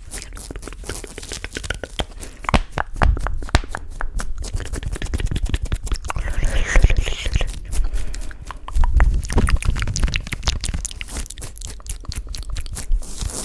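Close-miked wet mouth sounds: a dense, irregular run of small crackly clicks and smacks, with a low muffled swell about nine seconds in.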